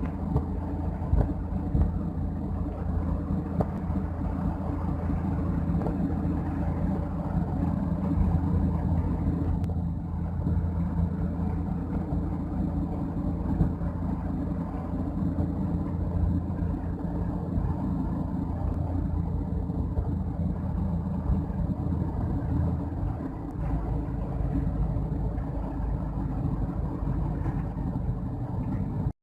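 Motor vehicle running steadily at road speed, a low engine drone with road noise and a few brief knocks.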